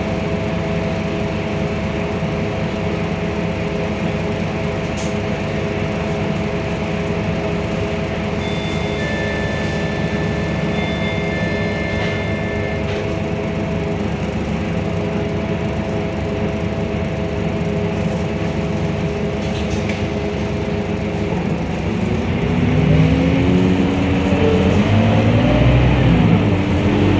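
Scania K230UB bus's diesel engine idling steadily, then about 22 seconds in pulling away, getting louder, its note rising and falling as the automatic gearbox changes up.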